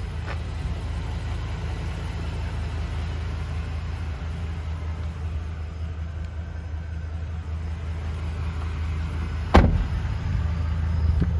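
Ford E350's 6.8-litre V10 gas engine idling steadily, with one sharp knock near the end.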